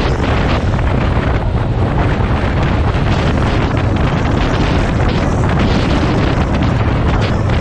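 Loud, steady wind buffeting the microphone, a dense rumble with no let-up.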